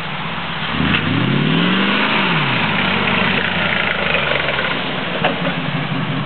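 Truck engine revved once: its pitch climbs for about a second and a half, then drops back and settles into a steady idle.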